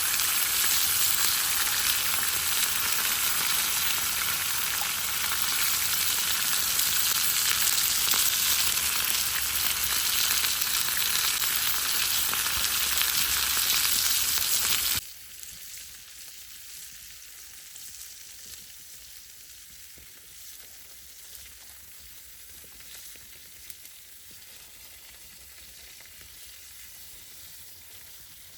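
Food sizzling and frying in a pan: a loud, steady sizzle for about fifteen seconds, then it cuts suddenly to a much quieter sizzle with small pops.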